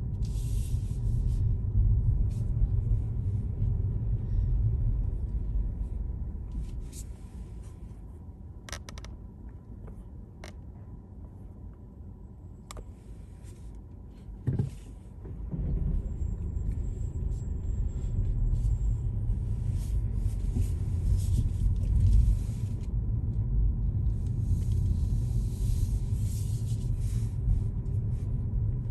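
A car driving, with a low road and engine rumble. The rumble quiets for several seconds midway as the car slows, then a thump comes and the rumble rises again as it drives on. A few light clicks sound during the quiet stretch.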